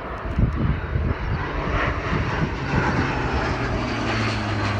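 Fixed-wing aircraft engine noise: a steady rushing sound with a low drone that grows stronger near the end, as the aircraft flies past.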